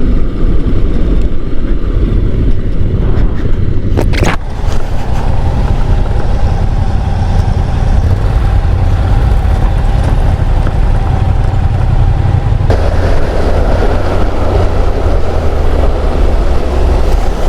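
Honda NC750 DCT motorcycle's parallel-twin engine running at road speed, with heavy wind rush on the microphone. A single sharp click comes about four seconds in, and the noise turns brighter about two-thirds of the way through.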